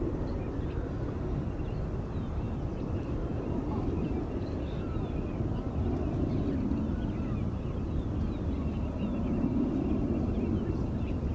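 Steady low rumble of distant jet aircraft, with faint short bird chirps above it.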